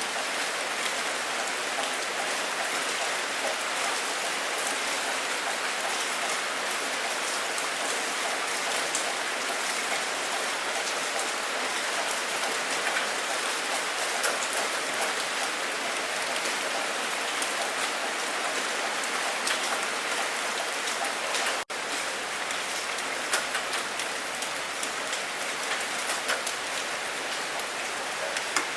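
Steady heavy rain falling, with scattered sharper drop hits standing out. The sound breaks off for an instant about three quarters of the way through, then carries on unchanged.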